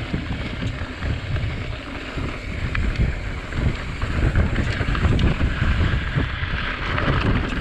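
Wind rushing over the microphone with a steady, uneven low rumble from a mountain bike rolling fast over a dirt trail.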